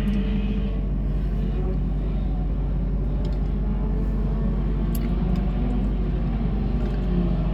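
Sport compact race cars running under green, a steady drone of several engines passing around the track with small rises and falls.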